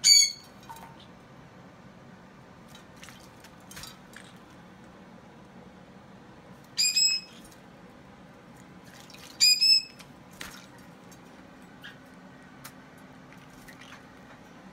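A pet bird at its bath giving short, high squeaky calls: one at the very start, then a doubled one about seven seconds in and another about nine and a half seconds in. Faint clicks and small water sounds come between them.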